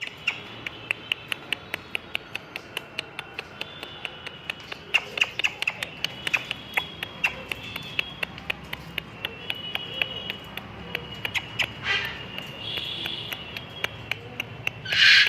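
A bird calling in quick, short, repeated chirps, about three or four a second, with a louder harsh squawk near the end.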